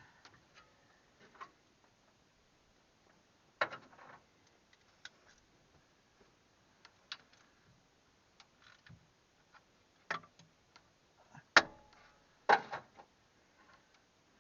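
Scattered sharp clicks and knocks of hand tools and metal parts being handled on a truck engine while its drive belts are refitted, with two louder knocks near the end.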